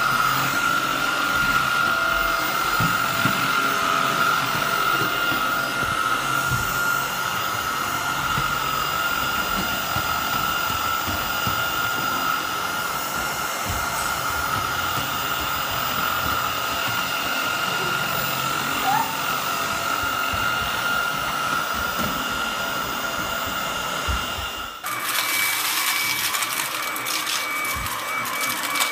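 Tineco A10 Hero cordless stick vacuum running, a steady motor whine over a rush of air. Near the end the sound changes abruptly to a higher-pitched whine with more hiss.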